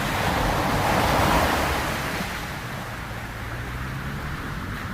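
Ocean surf: a wave surging and washing, swelling to a peak about a second in and then fading back to a steady wash.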